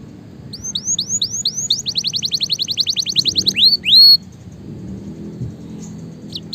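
Canary singing: a run of about six quick down-slurred notes, then a fast trill, ending about four seconds in with two loud sweeping notes and a short held whistle.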